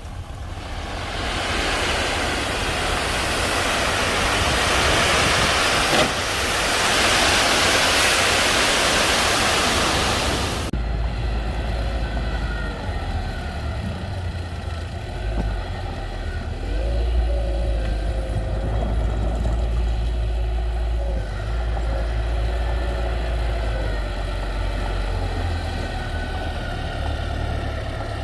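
Heavy construction machinery's diesel engine running with a steady low rumble. For about the first ten seconds a loud rushing noise covers it, then cuts off suddenly.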